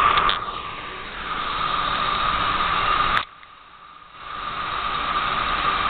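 Garden hose spray nozzle hissing steadily, with a faint whistle in the hiss; the spray cuts off with a click about three seconds in, stops for about a second, then comes back on.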